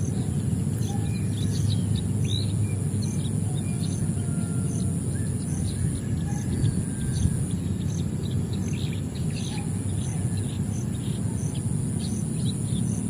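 Many small birds chirping in short, quick calls over a steady high insect drone and a regularly repeating high pulse, with a constant low rumbling background noise.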